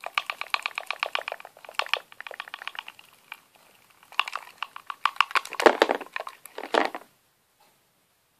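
Plastic packaging crinkling and crackling in the hands as a toy slime pod and its blind-bagged figure are unwrapped. The crackles come in quick dense runs and stop abruptly about seven seconds in.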